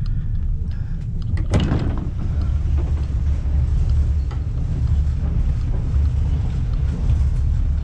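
Steady low rumble of a moving passenger train heard inside a sleeper carriage, with one sharp clack about a second and a half in.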